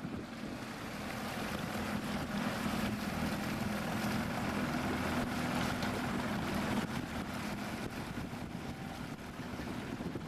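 Motorboat underway, its engine running at a steady note, with wind on the microphone and water noise across the hull.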